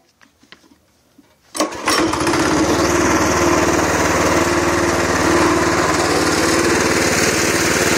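Predator 212 cc single-cylinder four-stroke engine on a mini bike starting up about a second and a half in, then running steadily.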